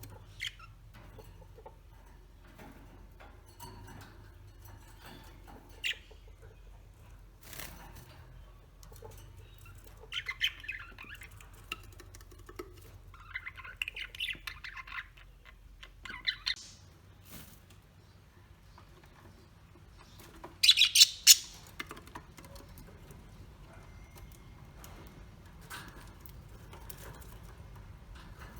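Birds calling: scattered squawks and chirps with bouts of chattering, and a loud, rapid series of harsh calls about two-thirds of the way through.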